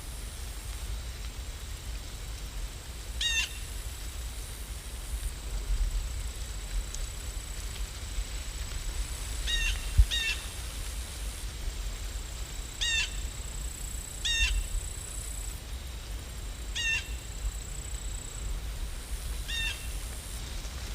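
A bird calling in short notes, singly or in pairs, about seven times, over a steady hiss of rain and a low rumble.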